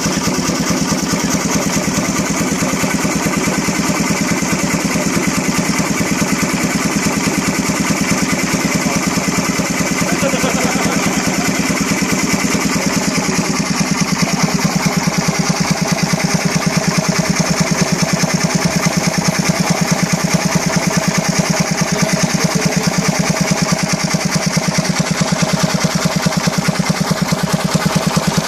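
Beaumaris three-cylinder steam boat engine running steadily, its exhaust giving a rapid, even run of beats.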